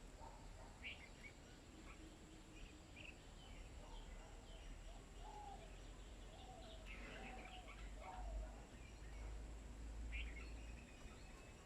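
Faint, scattered bird chirps: short high notes come every second or so, with a busier run of lower calls and chirps in the middle. Under them runs a low rumble that swells for a couple of seconds near the end.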